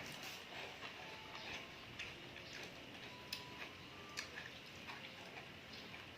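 Close-up eating sounds as sea grapes are chewed: scattered soft clicks and pops, about one a second, at a low level.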